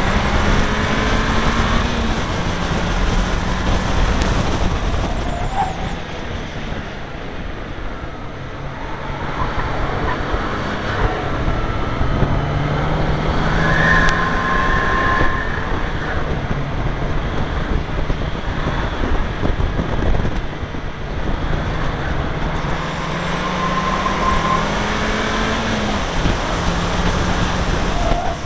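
Seat Leon Cupra R's turbocharged four-cylinder engine under hard acceleration on track. The note rises and then falls back at gear changes, about a second in and again near the end, over a steady rush of wind and road noise.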